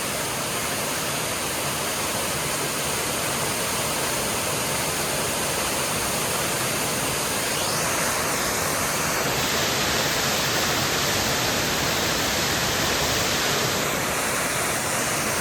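Waterfall rushing with a steady roar of falling water, slightly louder for several seconds past the middle.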